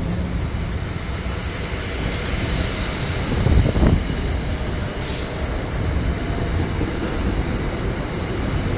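NJ Transit commuter train rolling along a station platform: a steady rumble of wheels and cars on the rails, loudest about three and a half seconds in, with a brief hiss about five seconds in.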